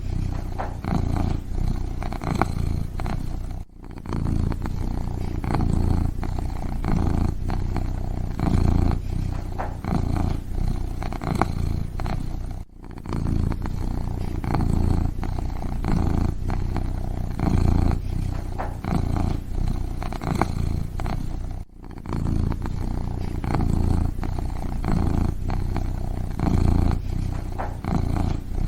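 Kitten purring close up: a continuous low rumble that swells and eases about once a second with its breathing. It drops out briefly three times, about nine seconds apart.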